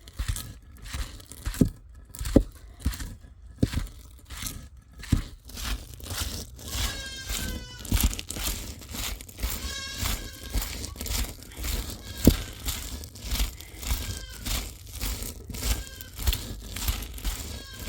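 Repeated crunching and knocking handling sounds, joined from about seven seconds in by short, high animal calls now and then.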